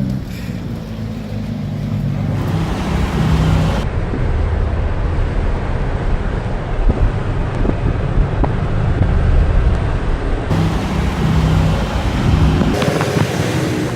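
Sports car engines running with a steady low rumble. A louder stretch in the middle is a rushing mix of engine and road noise, as a car drives by.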